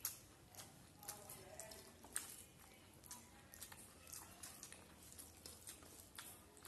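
Faint eating sounds of rice and curry eaten by hand: wet chewing and lip smacks, with soft squishing as the rice is mixed with the fingers, heard as irregular sharp clicks.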